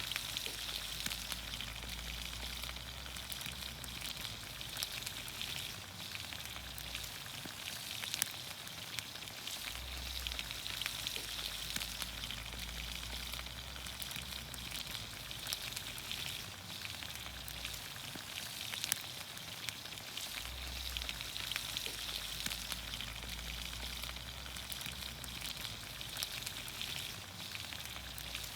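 Vegetables in olive oil sizzling steadily in a pan over a campfire, a dense hiss with fine crackles and pops throughout.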